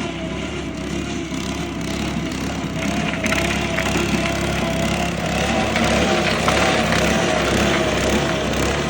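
Small petrol engine of a mini roller running steadily with a slightly wavering pitch, with crackling and snapping sounds joining in from about three seconds in.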